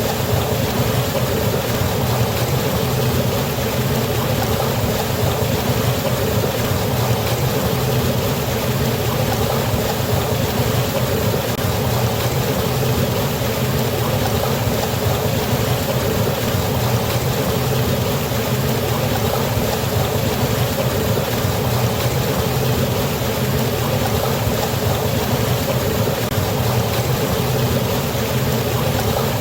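Water falling and rushing over a waterfall: a steady, unbroken rush with a low rumble underneath.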